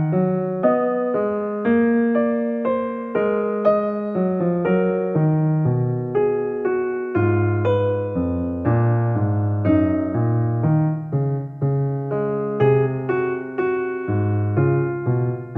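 Soft background music: a piano or electric piano playing a slow, gentle melody, one note at a time over low sustained bass notes.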